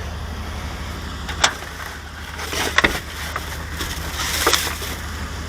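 Items in a pile of discarded junk being rummaged through: a few sharp knocks and short rustles over a steady low hum.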